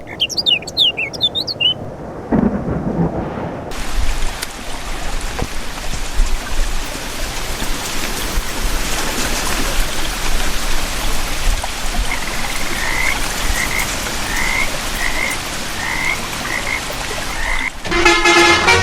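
Steady rain with a rumble of thunder and frogs croaking, after a moment of high chirping at the start. Just before the end it cuts suddenly to a tooting horn-like sound.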